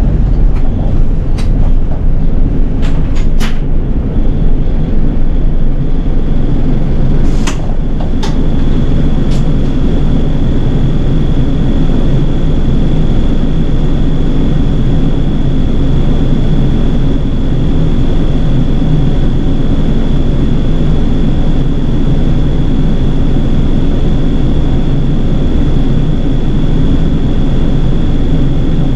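City bus running along, heard from inside: a steady low engine and road rumble, with a few sharp clicks in the first ten seconds and a thin, steady high whine from about eight seconds in.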